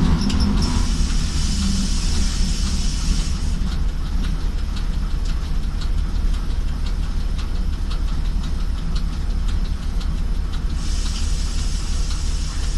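ChME3 diesel shunting locomotive's engine running with a steady low rumble, a faint regular ticking over it. A hiss of air comes in at the start, stops about three seconds in, and returns near the end.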